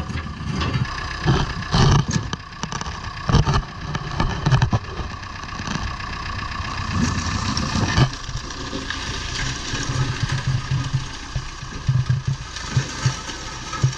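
A motor running steadily, with frequent irregular knocks and clatter.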